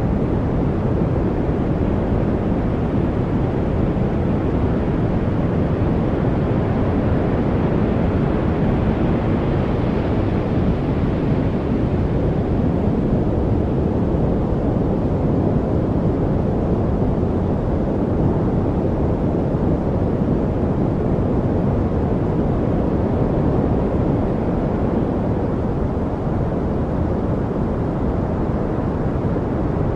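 Steady white-noise-style masking noise, deep and rumbling rather than hissy, with a slight swell in the upper hiss about a third of the way in.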